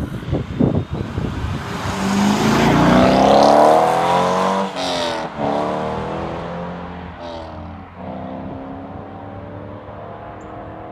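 A car with a loud aftermarket exhaust accelerating hard, with a few crackles at first. The engine note climbs in pitch, then drops and climbs again at each gear change, and slowly fades as the car pulls away.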